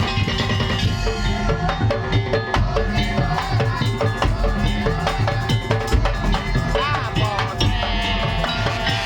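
A Madurese percussion band playing: drums and wooden percussion keep a steady driving beat, with a pitched melody line over it that bends in pitch about seven seconds in.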